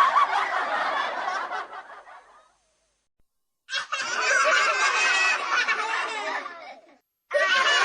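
Laughter sound effects played back to back. One laugh track fades out over the first two seconds or so. After a short silence, a second burst of laughter starts about three and a half seconds in and lasts about three seconds, and a third begins near the end.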